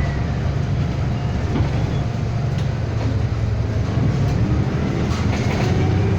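City bus running, heard from inside the passenger cabin: a steady low engine rumble with a few light rattles and clicks.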